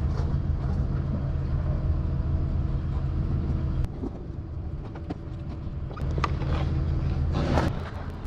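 Diesel semi-truck engine idling steadily; the engine sound drops away about four seconds in and comes back about two seconds later, with a few light clicks and a short rustle near the end.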